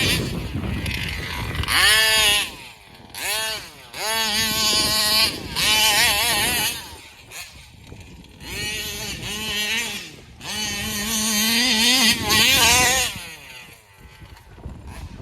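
Two-stroke engine of a gas-powered large-scale RC vehicle, fitted with a Roostertail 990 carburetor. It revs up and drops back in about half a dozen bursts of throttle, with quieter lulls between them.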